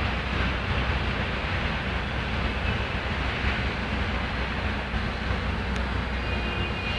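Steady low rumble with a hiss over it, with no distinct sounds standing out.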